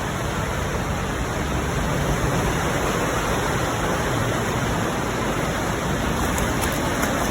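Steady hiss of rain, with a few faint high ticks near the end.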